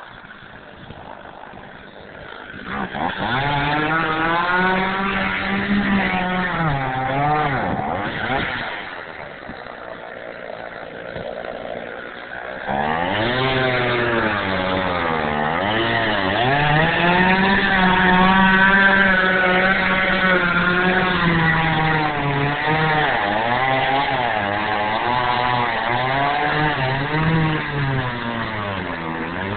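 A gas chainsaw running at high revs, its pitch sagging and recovering over and over as the throttle and load change. It drops to a quieter, lower stretch partway through, then comes back louder.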